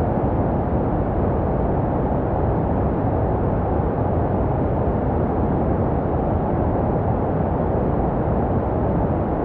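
Baby-sleep white noise: a steady, deep hiss weighted toward the low end, with no change in level or pitch. It is made to resemble the sound a baby hears in the womb.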